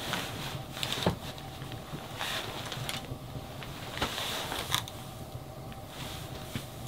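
Wood fire crackling, with scattered sharp snaps and brief bursts of hiss; the loudest snap comes about a second in.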